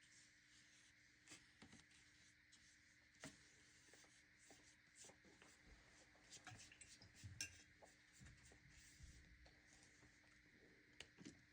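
Near silence with faint, scattered light taps and scrapes of a paintbrush working watercolor paint onto paper.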